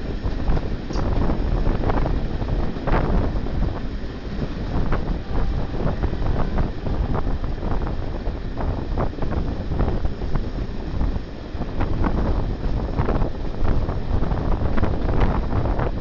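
Wind buffeting the microphone at an open window of a moving passenger train, over the steady rumble of the coach running on the track, with irregular clicks and knocks from the wheels.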